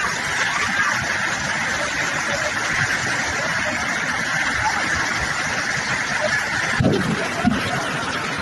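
Steady rush of heavy rain and running floodwater, an even noise throughout, with a brief low sound about seven seconds in.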